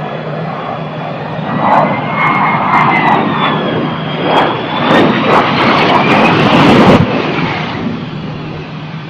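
Jet aircraft engine noise: a loud rushing roar with a high turbine whine that slowly bends up and down in pitch, dropping off sharply about seven seconds in.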